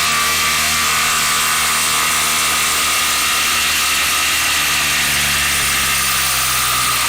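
Milwaukee M18 FUEL cordless impact driver hammering steadily at full speed on a bolt it cannot break loose.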